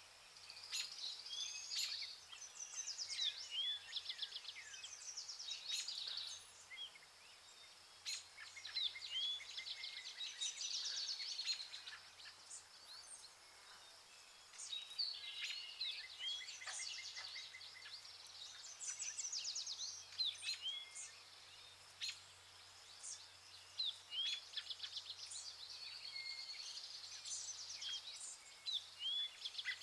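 A chorus of several birds calling and singing: rapid trills and short upward-hooked notes in bouts of a few seconds, with brief lulls between them. A faint steady low hum lies underneath.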